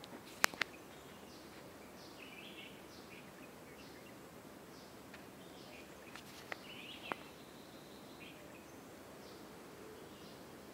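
Quiet outdoor ambience with small birds chirping over and over, punctuated by sharp clicks: two loud ones just after the start and two softer ones past the middle.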